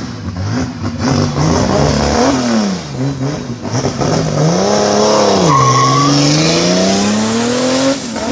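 Car engine revved hard several times, its pitch rising and falling, then climbing steadily for a couple of seconds near the end, with tyres squealing as the car pulls away.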